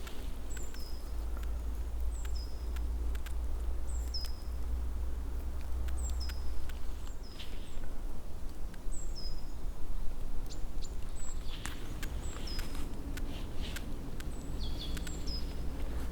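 A songbird repeating a short, high call roughly once a second, each note dropping quickly in pitch, over a steady low rumble and faint scattered clicks and rustles.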